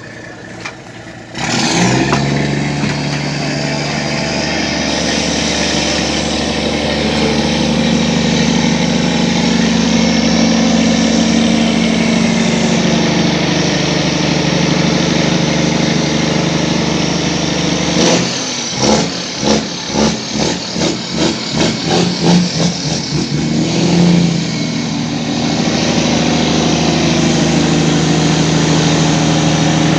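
Truck engine starting about a second and a half in and settling into a steady idle. Near the middle it is blipped in a quick series of short revs, about two a second, for several seconds, then goes back to idling.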